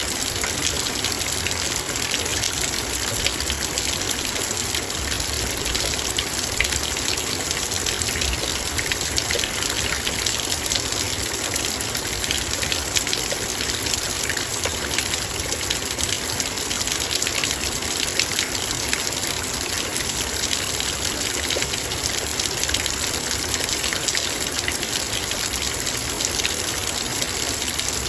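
Heavy rain falling steadily, its raindrops hitting a metal bowl as a dense, even hiss full of small ticks.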